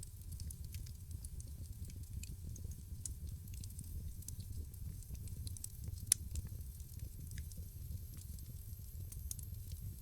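Wood fire crackling in a fireplace: a steady low rumble of the flames with scattered sharp pops and crackles, one louder pop about six seconds in.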